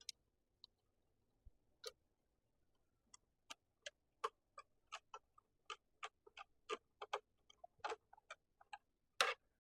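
Faint, sharp, irregular clicks, about two a second, from a screwdriver driving a screw back into a miter saw's housing.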